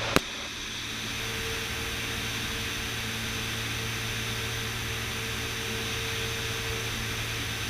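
Steady cabin drone of a Beechcraft Bonanza S35 in flight on approach, the engine and propeller heard as an even hum and hiss, with one short click just after the start.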